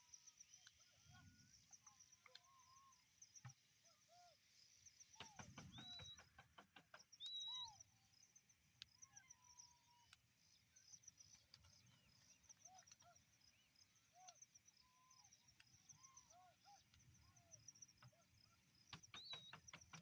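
A flock of quelea birds chattering: a steady, rapid high chirping, with scattered short lower calls and a few clear whistled notes. A run of sharp clicks comes about five seconds in.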